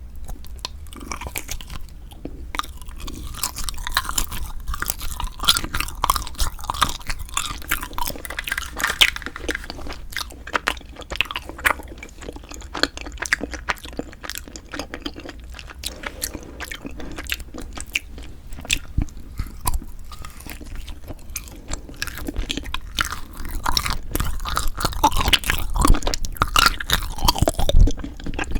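Close-miked chewing and biting of Kiri cream cheese rice-cake ice cream: a steady run of short crisp clicks and crunches from the mouth, a little louder near the end.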